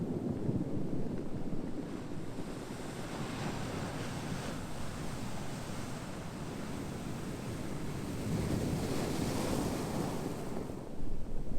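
Ocean surf: a steady low rumble of waves with a hissing wash that swells twice, the stronger swell about nine seconds in.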